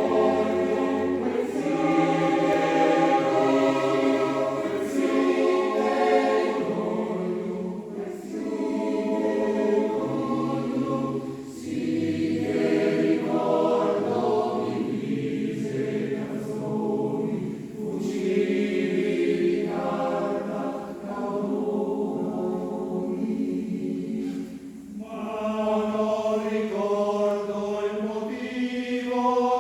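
A choir singing in several parts, in long sung phrases with short breaks between them.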